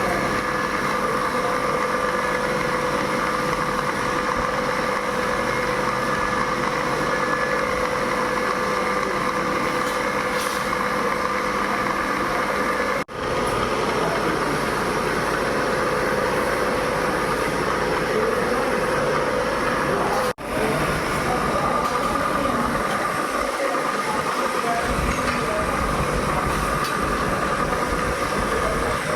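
Machinery in a metal wire kitchen-rack factory running steadily: a continuous mechanical din with a constant whine. It drops out briefly twice, about a third and about two-thirds of the way through.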